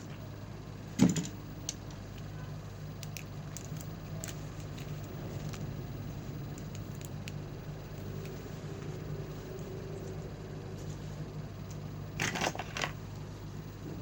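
Small handling clicks and knocks from tools and parts being worked on a bench, with one sharp click about a second in and a short cluster of knocks near the end, over a steady low hum.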